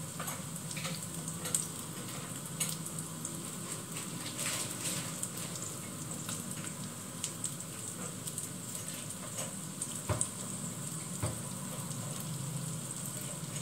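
Beef pieces sizzling and crackling in a frying pan over a gas flame, a steady hiss with scattered small pops. A low hum runs underneath, and two soft knocks come about ten and eleven seconds in.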